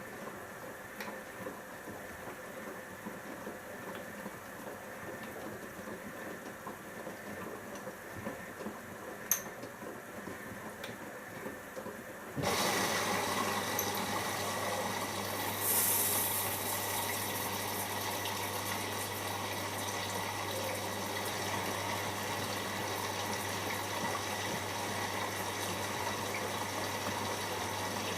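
Siemens iQ front-loading washing machine taking in water for its first rinse: quiet at first with a single click, then about halfway through the inlet valve opens and water rushes steadily into the machine with a low hum, with a brief hiss of spray a few seconds later.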